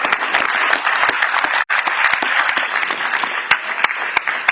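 Audience applauding in a dense, steady wave of clapping that thins out over the last second or so into a few separate claps.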